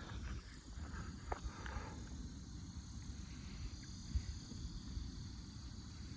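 Crickets chirring steadily, high-pitched and constant, over a low steady rumble.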